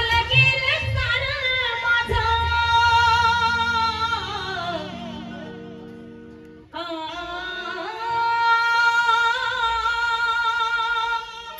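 A woman singing long, ornamented held notes in two phrases, with a wavering vibrato. The first fades away about five seconds in, and the second starts nearly seven seconds in and breaks off near the end, over steady held notes from an accompanying instrument.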